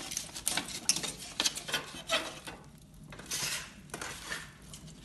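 Metal stove door and its latch handle clinking and scraping as they are worked, in a series of sharp clicks with a few short scrapes.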